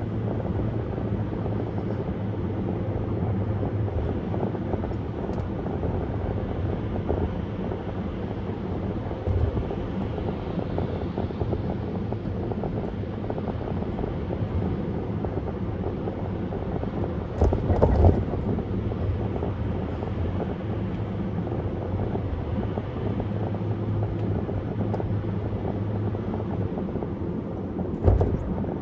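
Steady road and wind noise of a car driving at highway speed, with two brief louder thumps, one about two thirds of the way through and one near the end.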